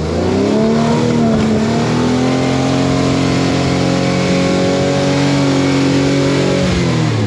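Off-road rock-crawling truck's engine revving up and held at high revs for several seconds, then the revs drop near the end.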